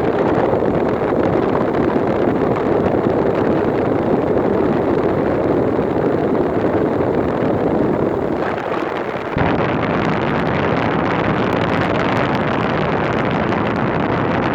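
LG window air conditioner running: a loud, steady rush of fan and blowing air close to the microphone. Its tone changes abruptly about nine seconds in.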